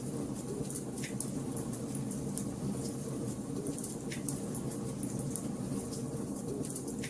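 Wood fire burning in a fireplace: a steady low rush of flames under constant small crackles, with three louder pops about three seconds apart.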